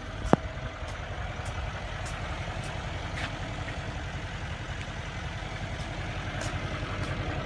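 Mercedes-AMG S63's 5.5-litre bi-turbo V8 idling steadily, with one sharp click about a third of a second in.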